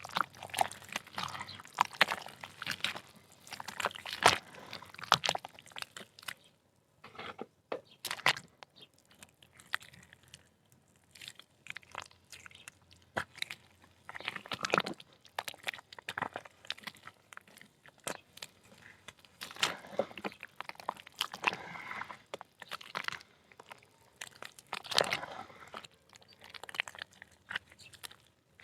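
Soft dried mud (dirt) chunks crumbling and crunching in the hands, with irregular spells of crackling broken by short pauses.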